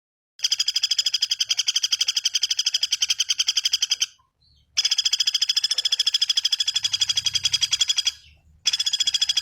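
A bird's fast rattling trill: rapid repeated high notes, about ten a second, given in three long bouts of three to four seconds each with short pauses between.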